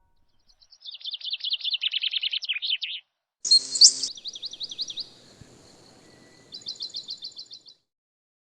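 Birdsong: several fast trills of repeated high chirping notes, with a brief harsh burst about three and a half seconds in.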